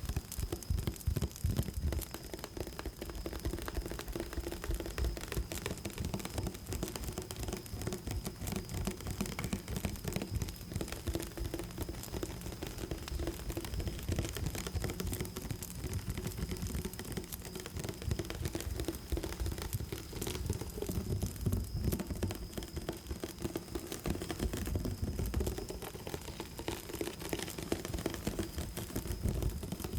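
ASMR triggers played close to the microphone: a dense, fast, continuous run of rustling and tapping that swells and dips a little in loudness. A faint steady high tone runs underneath.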